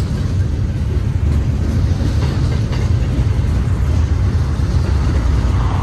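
Double-stack intermodal container train rolling past close by: a steady, loud low rumble of wheels and cars on the rail, with a couple of faint clicks.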